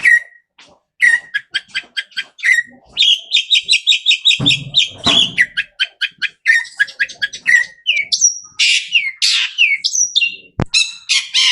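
A shrike singing a varied run of mimicked bird calls: strings of short chirps, a fast trill, then quick sliding whistles, with a sharp click about ten seconds in.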